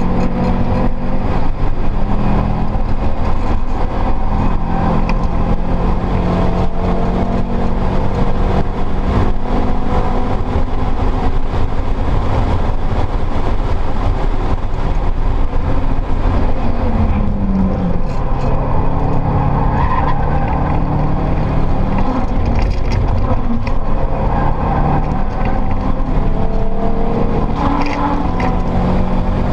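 Heard from inside the cabin, a Subaru Impreza WRX STi's built, turbocharged EJ flat-four engine is being driven hard on track. Its note climbs and falls as the driver works through the gears, over steady road and wind noise.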